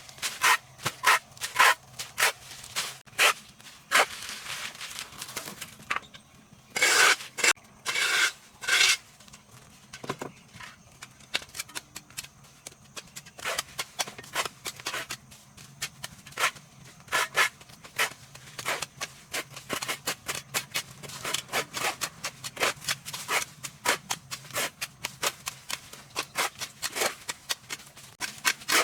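An irregular run of short, sharp scrapes and clicks from hand work, with a few longer rasping strokes about seven to nine seconds in.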